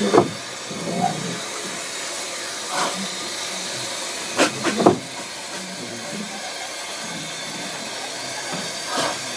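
Steam locomotive Caledonia, a narrow-gauge 0-6-0 tank engine, crawling up a gradient with a five-coach train: a steady hiss of steam with a few slow, irregular sharp exhaust beats, the sound of an engine struggling for adhesion on greasy rails.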